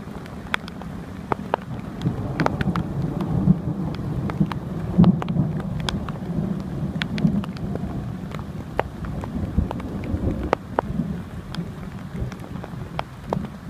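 Thunderstorm: steady rain with many separate drops tapping sharply close by, over a long low rumble of thunder that swells about two seconds in and fades away near the end.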